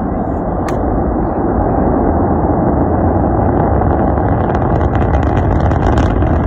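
Rocket launch rumble: a loud, steady low rumble that builds slightly, with crackling coming in over the last couple of seconds.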